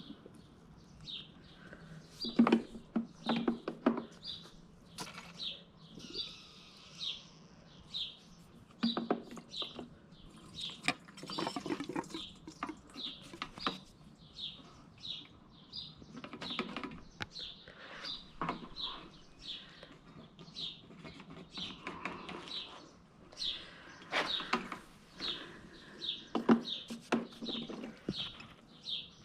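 A bird chirping over and over, a short high chirp about every half second to second, over intermittent knocks and clatter from handling things while siphoning gasoline out of a lawn mower's tank. The knocks are loudest a couple of seconds in and again near the end.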